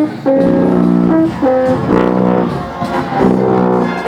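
Brass instruments of a marching band playing together, a series of held chords that change every half second to a second.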